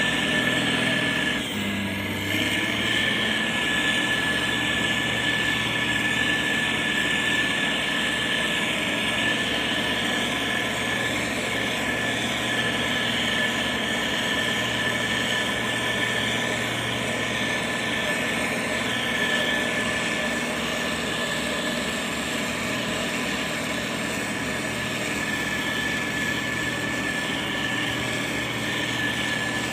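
Motor grader's diesel engine running steadily under work, with a steady high whine over it. The engine note shifts slightly about two seconds in.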